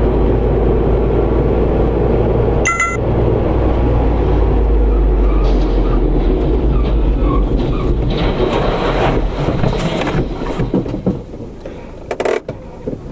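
Vehicle driving, heard from inside with steady engine and road noise. A brief sharp sound cuts in about three seconds in, and the noise swells for a couple of seconds later on before dropping near the end.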